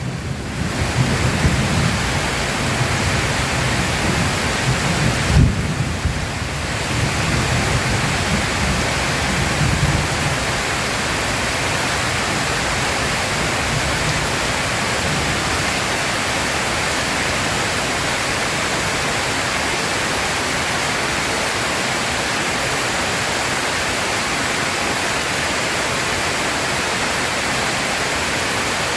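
Heavy rain falling steadily, with thunder rumbling low through about the first ten seconds, loudest about five seconds in, then fading out to just the rain.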